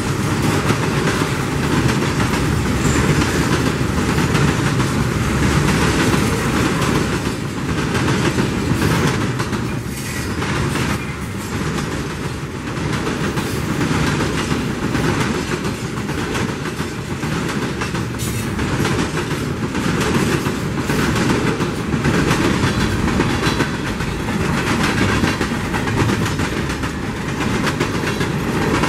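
Freight cars of a CSX steel train rolling past, loaded flatcars and steel-coil cars: a steady rumble of steel wheels on rail with repeated clickety-clack as the wheels cross rail joints.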